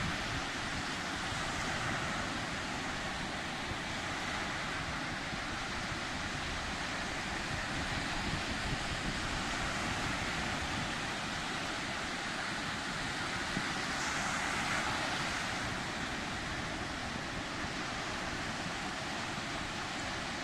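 Sea waves breaking and washing on the shore, a steady surf rush that swells gently a few times, with wind on the microphone.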